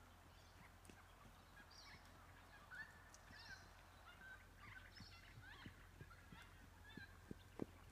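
Faint bird calls, a scatter of short chirps and gliding whistles, over a low steady hum, with a sharp thud near the end.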